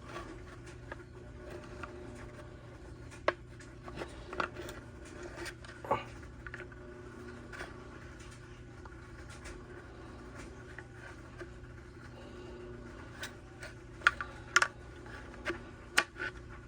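Scattered small clicks, taps and scrapes of hand tools working in a weed trimmer's plastic fuel tank to pull out the old fuel line and filter, with a cluster of sharper clicks near the end, over a steady low hum.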